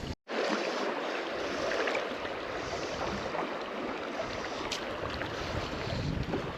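Flowing river water rushing steadily, with wind gusting on the microphone. It is broken by a split-second drop to silence just after the start.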